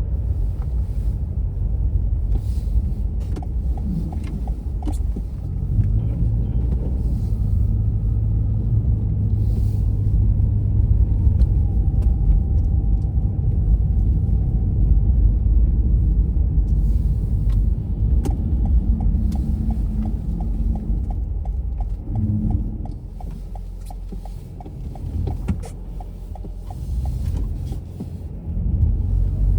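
Car driving on a winter road: a steady low rumble of engine and tyre noise, with a run of faint, evenly spaced ticks in the second half.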